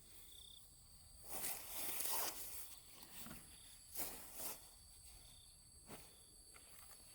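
Irregular rustling noises in three bursts, the loudest about a second and a half in, a shorter one about four seconds in, and a faint one near the end.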